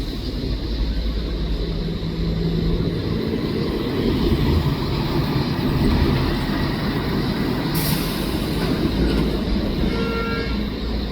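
Steady low rumble of motor traffic, with a short high-pitched tone about ten seconds in.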